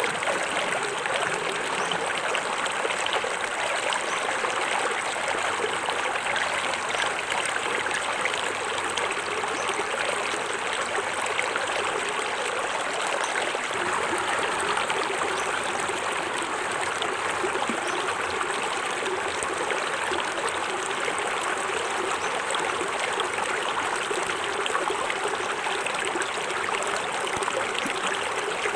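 Small forest waterfall splashing and a stream running over rocks: a steady, even rush of water that does not change.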